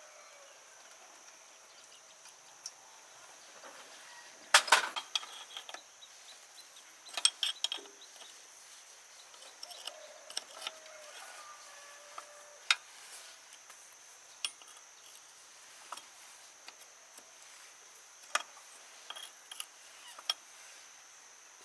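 Irregular metallic clinks and knocks of hand tools and machine parts being handled, loudest in a cluster about four and a half seconds in.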